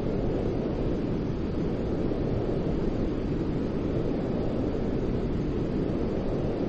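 Steady white-noise sleep sound: an even, deep rushing hiss with no changes in level or pitch.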